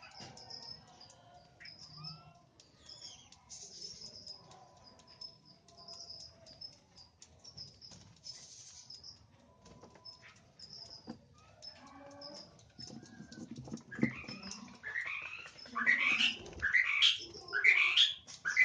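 Birds chirping: a steady run of short, thin, high chirps. About three-quarters of the way through come louder sweeping calls, roughly five of them, each swooping up and then down.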